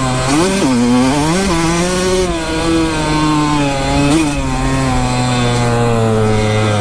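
Small off-road engine running at steady low revs, with three brief throttle blips: about half a second in, about a second and a half in, and about four seconds in.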